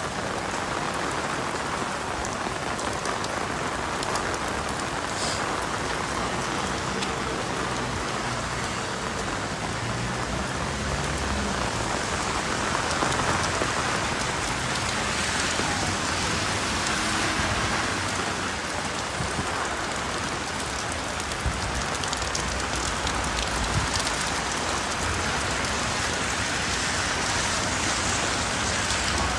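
Steady rain falling and tapping on an umbrella, a dense, even hiss at a constant level, with a faint low hum underneath.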